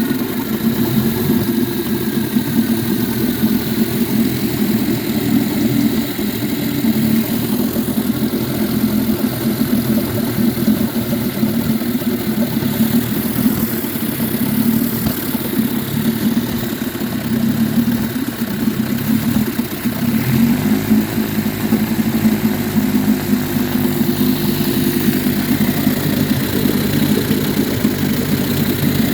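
Two 1953 Scott Atwater Gold Pennant 7.5 hp two-stroke outboard motors running together at a steady idle. The running note shifts and deepens about twenty seconds in.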